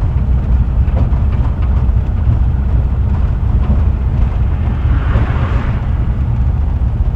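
VW Kombi van driving, a steady low rumble of engine and road noise heard from inside, with a short swell of hiss about five seconds in.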